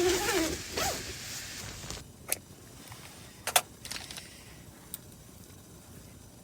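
Tent door zipper being pulled open with a continuous rasp that stops abruptly about two seconds in, followed by a few sharp clicks.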